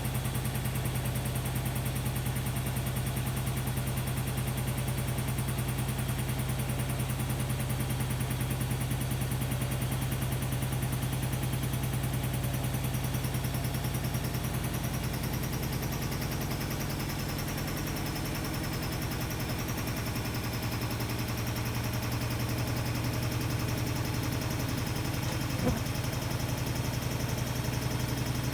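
Hotpoint-Ariston Aqualtis AQD972F washer-dryer running, a steady low machine hum. The hum shifts slightly partway through, and there is a single sharp click near the end.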